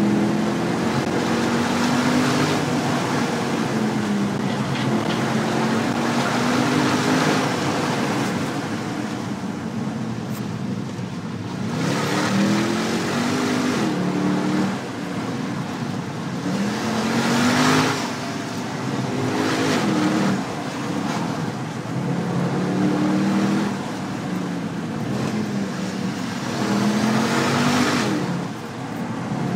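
Mercedes-Benz C63 AMG V8 heard from inside the cabin under hard driving, the engine note climbing and then dropping back sharply several times as it pulls through the gears, over steady tyre and road noise.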